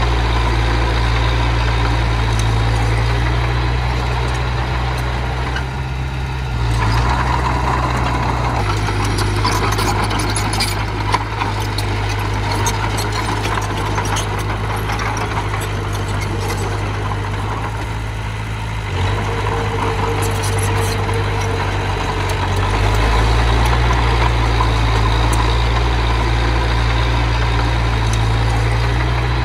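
Miniature bulldozer's engine running with a steady low hum, its note and load shifting several times as it works, with one sharp knock partway through.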